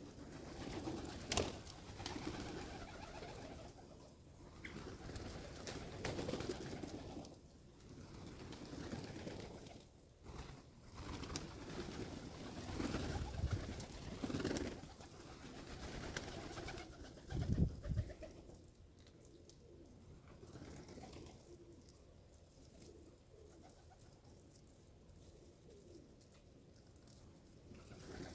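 Birds cooing over and over in low, pulsing calls, with a few sharp taps; the calls die down in the last third.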